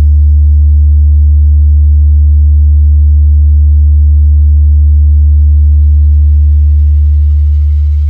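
Loud, steady deep bass test tone, a low sine-like hum for checking a sound system's bass response. It starts to fade near the end.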